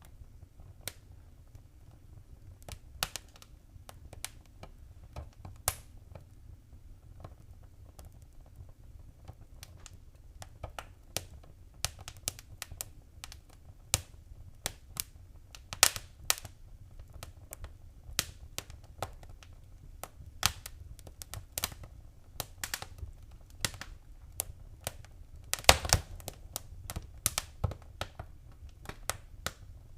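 Wood fire crackling: irregular sharp snaps and pops over a low steady rumble of the flames, growing busier in the second half, with a quick burst of loud pops about 26 seconds in.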